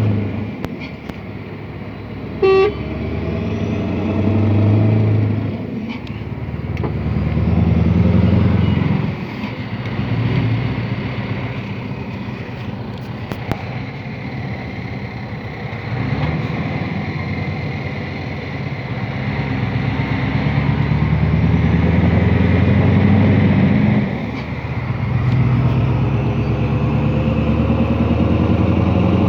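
Scania R500 V8 truck engine running through an open exhaust pipe, its note swelling and falling off several times. A short horn toot sounds about two and a half seconds in.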